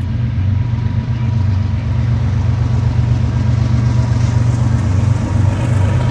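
Diesel locomotives of a CSX freight train, led by the Louisville and Nashville heritage unit, running past with a steady, loud low engine drone.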